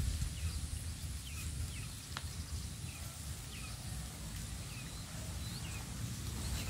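Small birds calling in short, high chirps, each falling in pitch and repeated irregularly, over a low rumble, with one sharp click a little over two seconds in.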